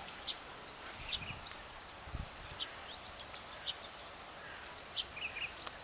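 A small bird chirping in short, separate calls every second or so, including a quick run of notes near the end, over a steady outdoor hiss. There is a low thump about two seconds in.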